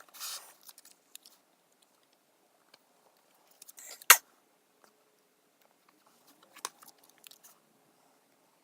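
Handling of sticker sheets and a paper planner: a short rustle at the start, one sharp click about four seconds in, then scattered faint ticks and taps as stickers are peeled and pressed down.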